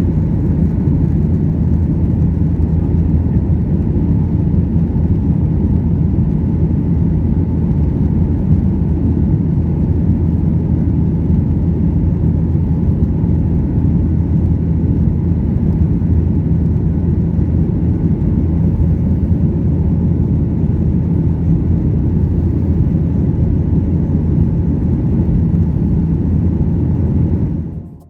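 Steady low drone inside the cabin of a Boeing 737-800 in flight, the CFM56 engines and airflow blending into one constant hum. It dips away right at the end.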